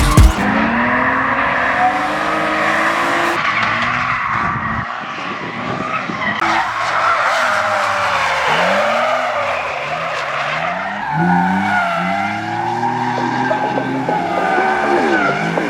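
Drift cars sliding, their engines revving up and down repeatedly over the hiss and squeal of skidding tyres.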